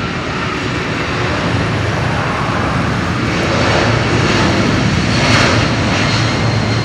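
Boeing 767-200 freighter's twin jet engines at takeoff power, a loud rushing jet noise that grows louder towards the middle. A steady high whine runs through the later part.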